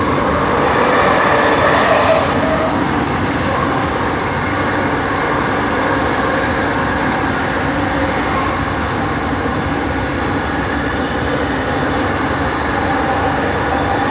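Bombardier Innovia ART 200 metro car running along the line, heard from inside the cabin: a steady rolling rumble with the whine of its linear induction motors, several steady tones held over the noise.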